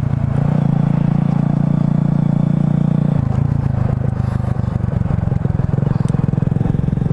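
Motorcycle engine running steadily while riding, its note dropping to a lower, steady pitch about three seconds in as the revs come down.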